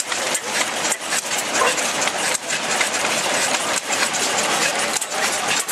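Blackstone stationary oil engine running, a steady mechanical clatter with sharper knocks at uneven intervals.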